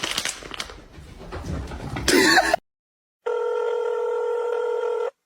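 Uneven background noise that ends in a short louder burst and is cut off into dead silence. About a second later a steady electronic tone of several held pitches, like a phone ringing, sounds for about two seconds and stops abruptly.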